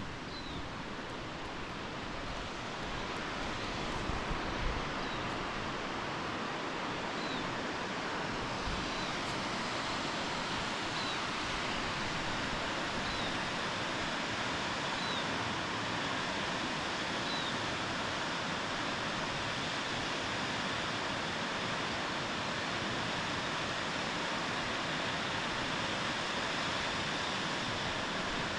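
Steady rush of falling water, growing louder over the first few seconds and then holding even. A bird gives a short, falling high note every couple of seconds.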